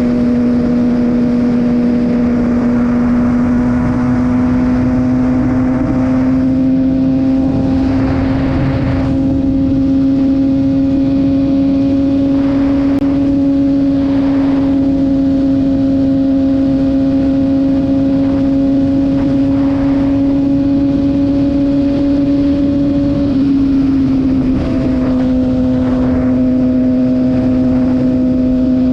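Kawasaki ZX-6R sportbike's inline-four engine running at steady high revs while cruising, its pitch holding nearly constant, with a brief dip near the end before it settles slightly lower.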